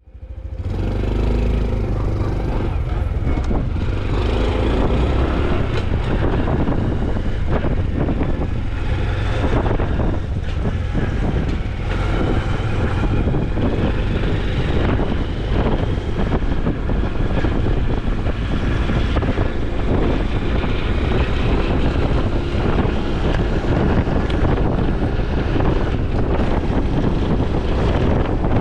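Honda CT125 Hunter Cub's single-cylinder engine and exhaust running steadily while riding, mixed with wind and road noise.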